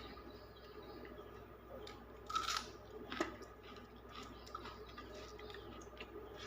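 Close-up eating sounds of rice and dal being chewed, with small wet clicks and two louder crunchy bites a little over two and three seconds in.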